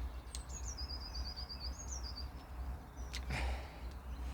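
A small songbird singing a high trill of quick repeated notes that ends in a short flourish, over a steady low rumble. A sharp click comes near the start, and a brief scraping rustle about three seconds in.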